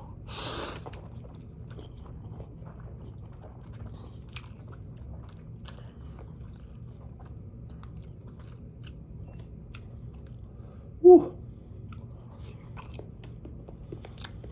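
Close-miked mouth sounds of a person chewing a big mouthful of spicy ramen noodles: a brief noisy burst at the start, then soft chewing with many small wet clicks. About eleven seconds in there is a short, loud "woo" exclamation at the heat.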